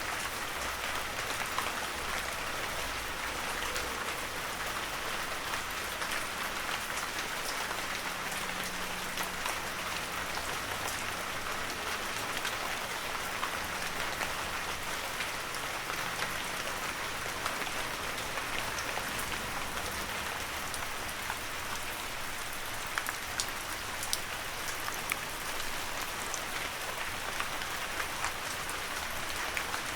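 Heavy rain falling steadily, with a dense hiss of drops and many sharper individual drop hits scattered through.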